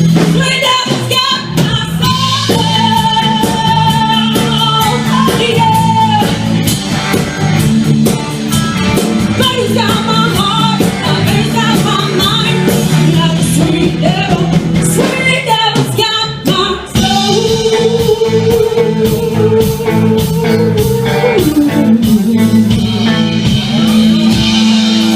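Live rock band playing: electric guitar holding long notes over bass and drums, with singing.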